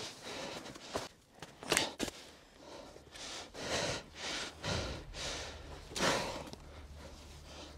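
A series of short, noisy rushing and scraping sounds with a few sharp clicks. About halfway through, a vehicle engine starts and idles with a steady low hum under them.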